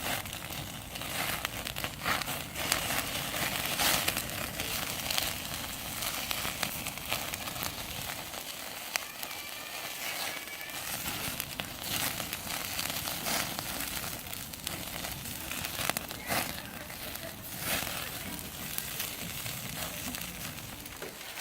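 Pork belly sizzling over a crackling wood fire, with frequent sharp pops and snaps.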